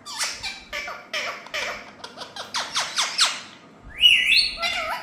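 Indian ringneck parrots calling: a quick run of short chirps, each dropping in pitch, then a rising whistle about four seconds in.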